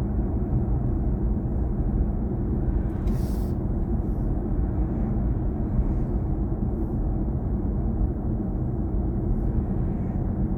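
Steady low road and tyre rumble inside the cabin of a moving BMW i4 M50, an electric car with no engine note. A brief hiss about three seconds in.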